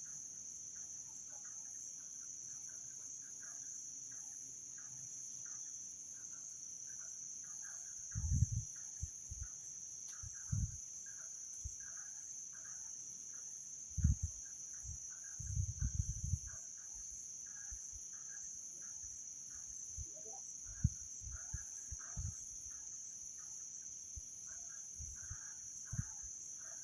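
Steady high-pitched insect chorus with scattered short chirping calls. Irregular low thumps and rumbles break in now and then through the middle and near the end.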